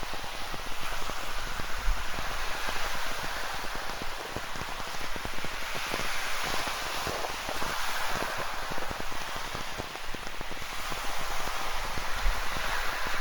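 Rain falling in a dense patter of drops over the steady hiss of ocean surf, which swells and eases every few seconds as waves wash in.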